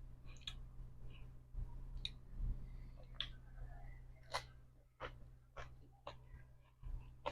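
Pestle and spoon tapping in a mortar while a Thai pounded seafood salad is mixed: scattered light clicks, then regular taps about twice a second in the second half.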